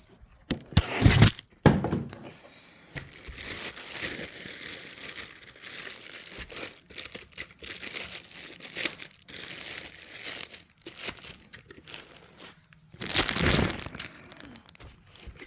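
Packaging being handled and pulled open by hand: crinkling, rustling and tearing in irregular bursts, loudest about a second in and again near the end.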